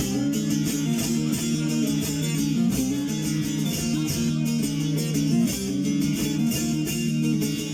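Bağlama (long-necked Turkish lute) playing a fast, steady run of plucked notes: the instrumental interlude of a semah tune between sung verses.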